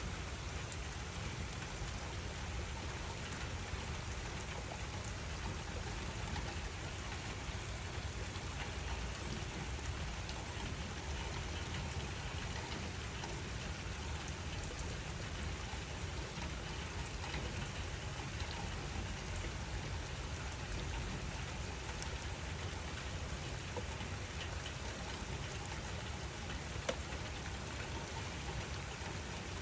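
Steady rainfall: an even wash of rain with scattered individual drops ticking on surfaces, and one sharper drop tick near the end.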